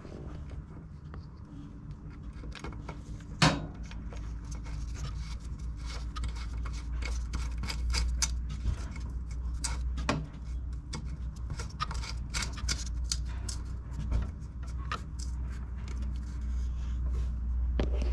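Hands working on a walk-behind lawnmower: scattered clicks, rattles and scrapes of metal and plastic parts being handled, with one sharp knock about three and a half seconds in, over a steady low rumble.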